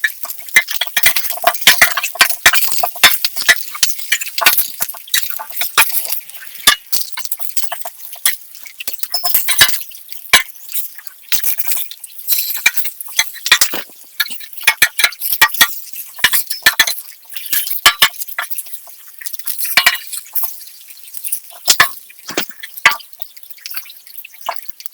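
Irregular sharp clinks and taps of utensils against dishes, several a second, with a faint hiss early on.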